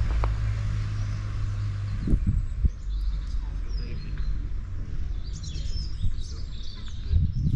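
Small birds chirping on and off, busiest in the second half, over a low outdoor rumble.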